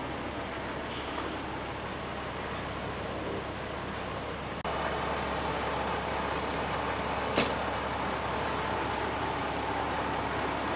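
Steady rumble of vehicle engines running at idle, stepping up a little in level about halfway through, with a faint steady hum after that and a single sharp click about two-thirds of the way in.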